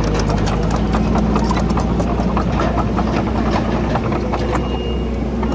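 Diesel engine of a crawler bulldozer running steadily, with a dense, irregular clatter of knocks over it as the machine works rock and soil.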